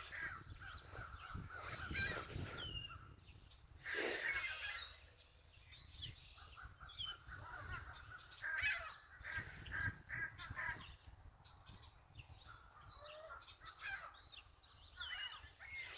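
Faint, scattered cries of a flock of gulls circling overhead, short calls coming every second or so, a slightly louder one about four seconds in.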